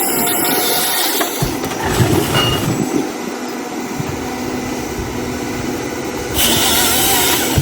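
Heavy machine running steadily, with two stretches of loud hissing noise, one in the first second or so and one near the end.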